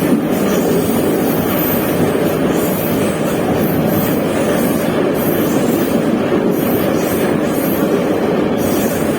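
Metro train running at speed between stations, heard from inside the car: a steady noise of wheels on rails and running gear in the tunnel.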